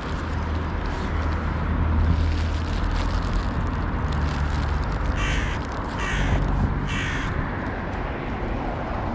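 A crow cawing three times in quick succession, about five to seven seconds in, over a steady low rumble.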